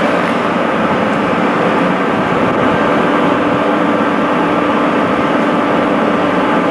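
A train running close by: a loud, even rumble with a steady hum through it.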